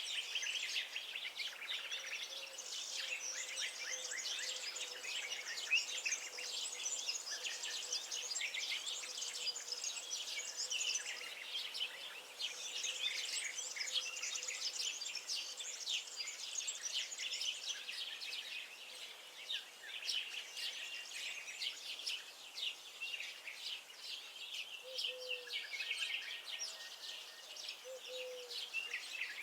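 Many songbirds chirping and singing at once, a dense unbroken chorus of quick high notes and trills.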